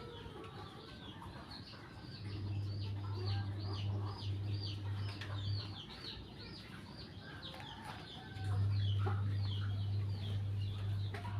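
Birds chirping in quick repeated high calls, over a steady low hum that starts about two seconds in, drops out near six seconds and comes back louder about eight and a half seconds in.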